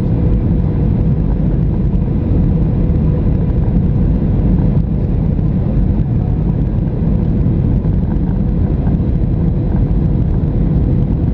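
Steady low rumble of jet engine and airflow noise inside the cabin of a Boeing 737-700, with a faint steady hum above it.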